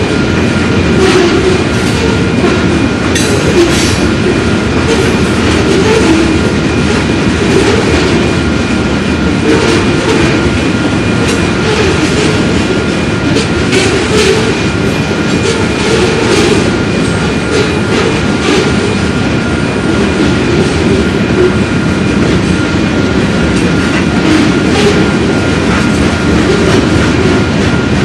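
Train cars rolling past with a steady rumble, irregular clicks from the wheels over the rails, and a faint, steady high-pitched wheel squeal.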